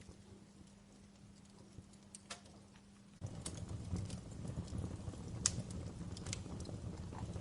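Wood fire in a fireplace crackling with scattered sharp pops. About three seconds in it abruptly gets louder, with a low rushing sound of flames under the crackles.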